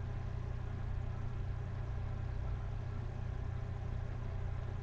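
A steady low hum with no change and no other events, like a motor or fan running.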